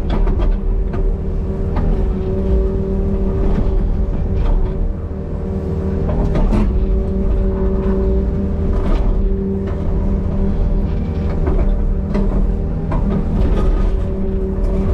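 Small excavator's diesel engine running steadily with the hydraulics working, heard from the cab, with scattered sharp knocks and cracks.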